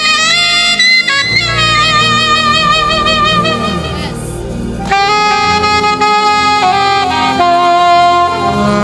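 Saxophone playing a slow melodic worship line of held notes with vibrato, over a low sustained band accompaniment. The sax breaks off briefly about four seconds in, then returns with another phrase of long held notes.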